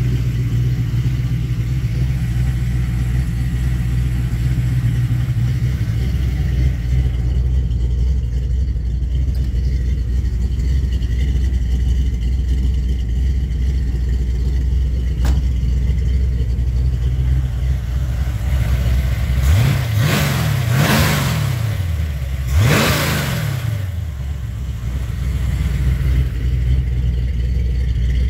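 347 stroker small-block Ford V8 with a Quick Fuel double-pumper carburettor idling steadily, then revved briefly twice, about twenty seconds in and again two seconds later, each time rising and falling back to idle.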